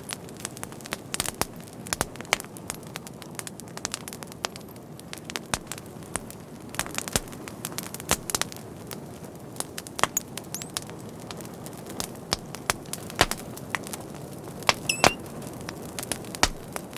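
Fire crackling: irregular sharp pops and snaps of uneven loudness over a steady low hiss of burning, with a brief thin high whistle near the end.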